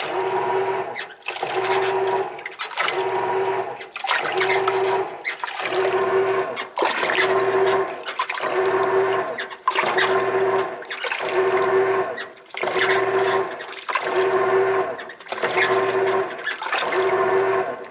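Washing machine agitating in a regular back-and-forth rhythm of about one stroke every 1.4 s, water sloshing in the tub. Each stroke carries a steady squeak ('kyu-kyu-kyu'), which came on after a washing-tub cleaner was used.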